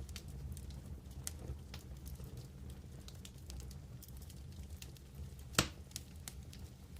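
Wood fire crackling, with frequent small snaps and one louder pop about five and a half seconds in, over a steady low rumble.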